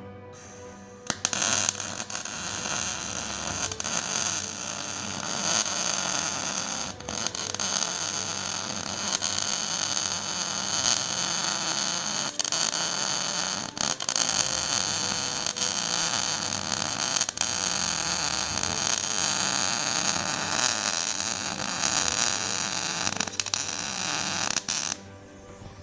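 Electric arc welder laying weld beads on a steel suspension bracket: a loud, steady crackling hiss that starts about a second in. It breaks off briefly three or four times between runs and stops shortly before the end.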